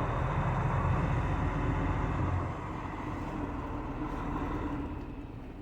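Heavy truck engine running at low speed, a steady low rumble that eases slightly about two and a half seconds in.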